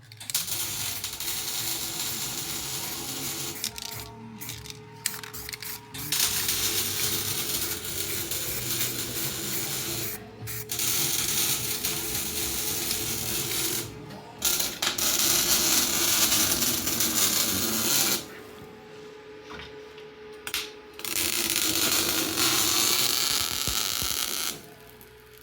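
Metalworking power tools on vehicle bodywork, running in bursts of a few seconds with short breaks between them, over a steady tone.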